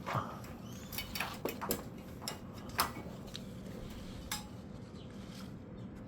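Scattered light clicks and taps, several in the first three seconds, with one more about four seconds in, over a faint steady background hum.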